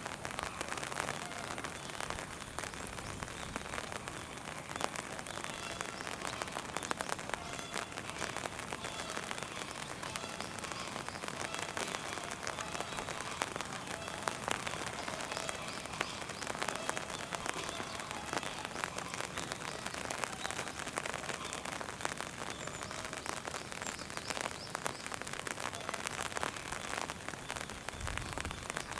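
Steady rain falling, with a dense patter of individual drops ticking close by.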